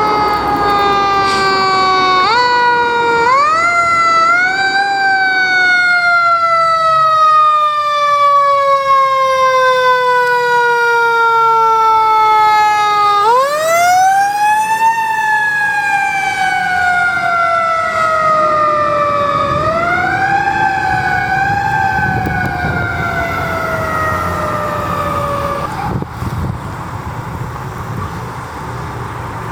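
Fire truck siren winding up in short rises and then coasting down in long, slow falling wails, three times over, before cutting out near the end. A low truck engine rumble runs beneath it.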